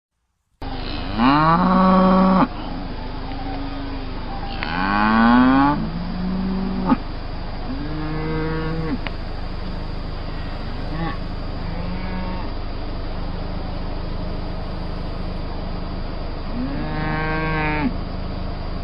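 Water buffaloes lowing: about six long, drawn-out calls, the loudest about a second in, about five seconds in and near the end, with fainter ones in between. One sharp click comes about seven seconds in.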